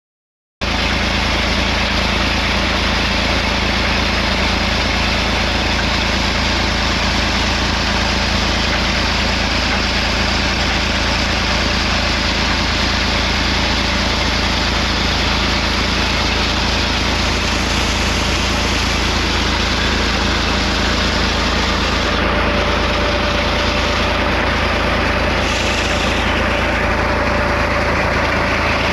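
Tractor diesel engine running steadily under load, driving a tubewell water pump.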